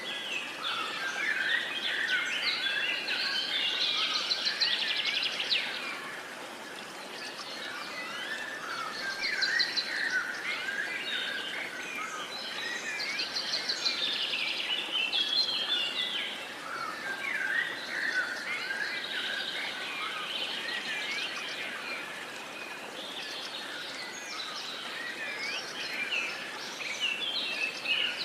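Many birds singing and calling together, dense overlapping chirps and rapid trills, over a steady background hiss.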